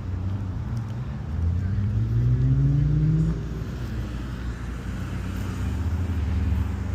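A car engine revs up, its pitch rising for about two seconds before dropping back, over a steady low engine rumble.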